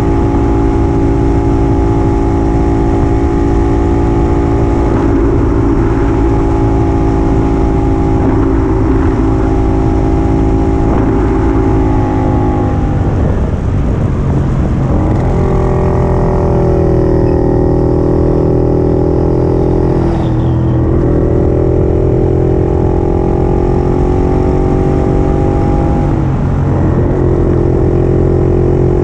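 1950s Puch 250 TF's two-stroke engine running under load on the move, holding steady revs. The pitch dips and picks up again three times, about 13, 20 and 26 seconds in, as the throttle is eased and reopened.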